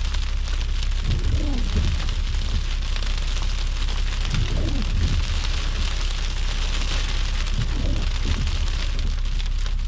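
Car road noise from inside the cabin while driving in a snowstorm: a steady hiss of tyres on a wet, slushy road over a constant low rumble. Faint muffled voices come through a few times.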